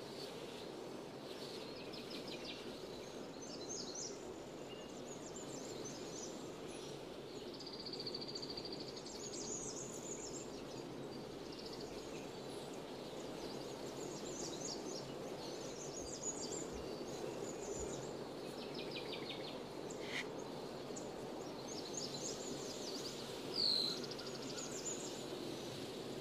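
Small songbirds chirping and trilling on and off over a steady low rushing background, with one louder, sharper call near the end.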